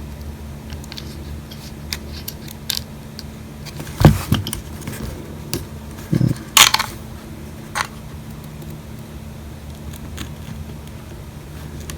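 Small repair tools clicking, tapping and scraping against an iPhone SE's housing while prying out its glued-in battery, with a louder knock about four seconds in and a few more around six to seven seconds, over a steady low hum.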